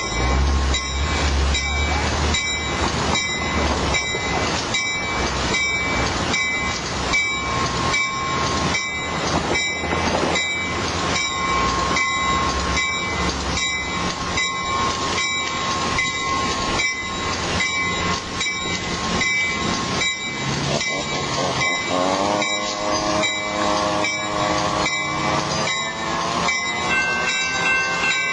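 Amtrak San Joaquin push-pull passenger train pulling out of the station, with a bell ringing at a steady pace of about one and a half strokes a second over the train's running noise. A deep diesel rumble is strongest in the first few seconds, and a set of lower droning tones joins in about two-thirds of the way through.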